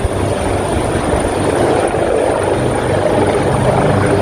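Helicopter running loud and steady, rotor and engine noise with a low pulsing beat.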